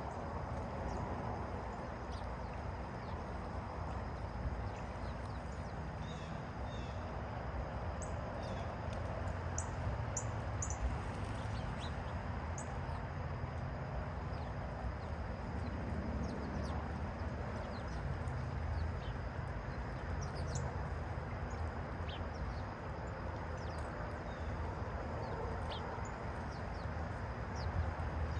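Small birds chirping in short, high, scattered calls over a steady low outdoor rumble.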